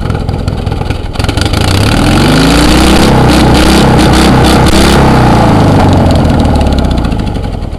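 Small gasoline engine running, revved up and held high for a few seconds, then brought back down and dying away near the end as it winds down.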